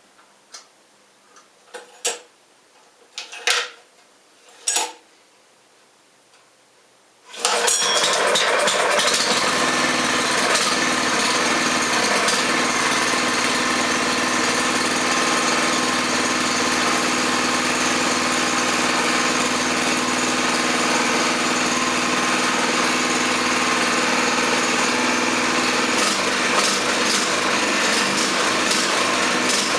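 A few short knocks and clicks, then a freshly rebuilt Kawasaki FG 200G small engine starts suddenly about seven seconds in, on its first start after the rebuild, and keeps running steadily and loudly.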